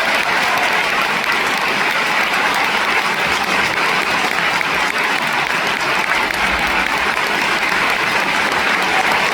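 Concert hall audience applauding steadily after an orchestral performance ends.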